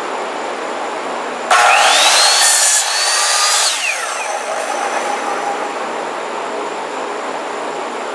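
Power tool starting up about a second and a half in, its motor whining up in pitch for about two seconds and then winding down, over a steady hum.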